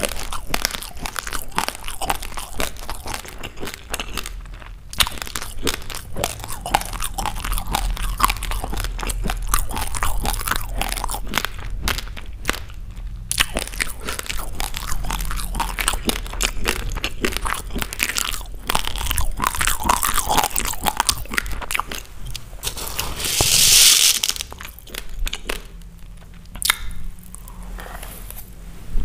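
Raw basmati rice grains being crunched and chewed close to the microphone, a rapid, uneven run of small cracks. About three-quarters through there is a brief louder hiss, after which the crunching goes quieter.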